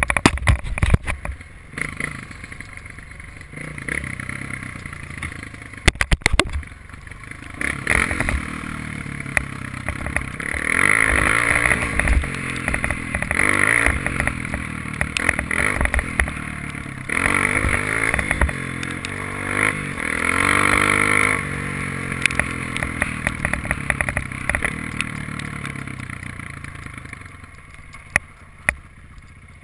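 Honda dirt bike engine running, revved up and down again and again in the middle, with clattering knocks from the bike over rough ground; it settles to a lower, quieter running near the end.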